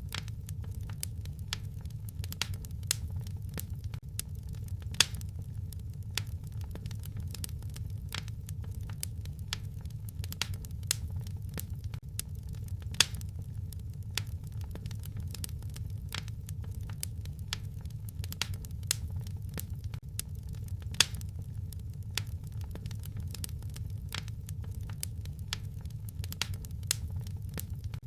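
Fireplace fire crackling: irregular sharp pops and snaps, several a second, with a few louder pops scattered through, over a steady low rumble.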